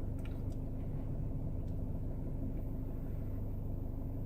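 Steady low rumble with a constant hum, heard inside a car, like an idling engine; a couple of faint clicks come in the first half-second.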